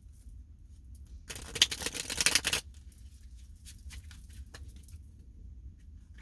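A deck of tarot cards being shuffled: a dense, rapid run of card clicks lasting just over a second, starting about a second in, then a few scattered light taps of cards being handled.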